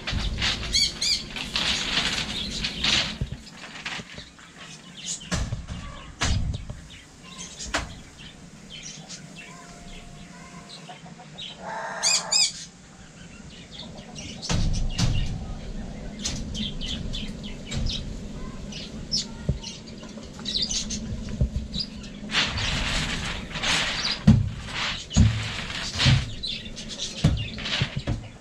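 Birds chirping, with a short wavering call about halfway through, over irregular clicks and knocks and a steady low hum.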